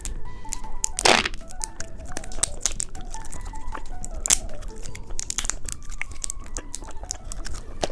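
Plastic candy wrapper crinkling and being torn open, with one loud rip about a second in and many small crackles, over light background music.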